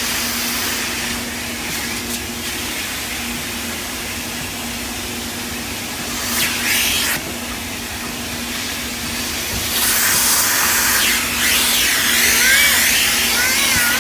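Automatic car wash heard from inside the car: a steady hiss of water spray against the body, swelling louder briefly about six seconds in and again from about ten seconds.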